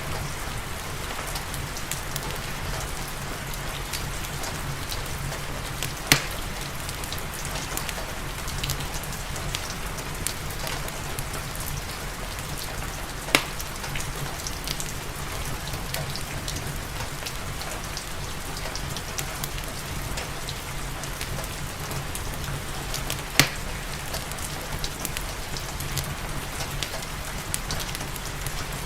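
Steady rain, mixed with the crackle of a fireplace: many small clicks and three louder sharp pops spread through.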